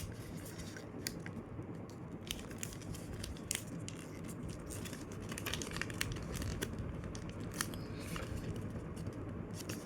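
A sheet of paper being handled and folded by hand: soft rustling and crinkling with irregular sharp crackles as an edge is brought to a line and lightly creased.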